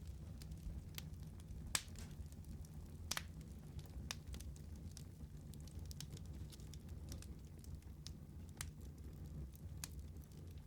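Wood fire burning in a fireplace: a low steady rumble of flames with irregular sharp crackles and pops, a few louder snaps near the start.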